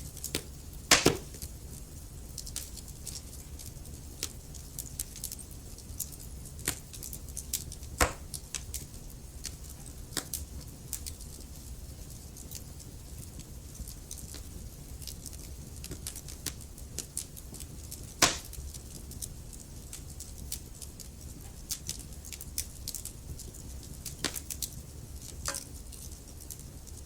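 Burning logs crackling in a fireplace: a steady scatter of small sharp snaps, with louder pops about a second in, at about eight seconds and at about eighteen seconds, over a low steady rumble.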